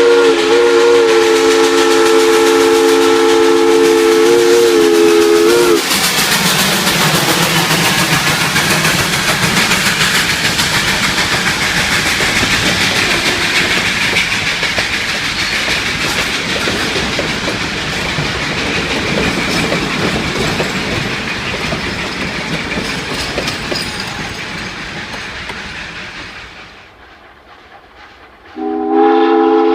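Steam locomotive whistle, Great Smoky Mountains Railroad 2-8-0 No. 1702, sounding a chord of several notes that wavers in pitch and cuts off about six seconds in. The train then runs by with wheels clattering over the rail joints, and the sound slowly fades away. Near the end the whistle sounds again, starting abruptly.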